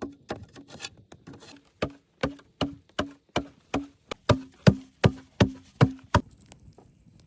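A tool striking wood in quick, even blows, about two and a half a second, each a sharp knock with a short ring. There is a brief pause about a second in, and the blows stop a little after six seconds.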